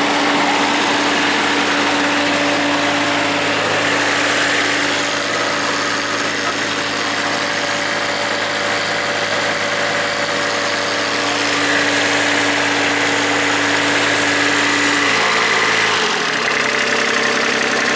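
Kubota D1105 three-cylinder diesel engine of a ride-on vacuum sweeper running steadily, with a dense rush of air from the vacuum. About 16 seconds in, the engine tone drops lower as it slows.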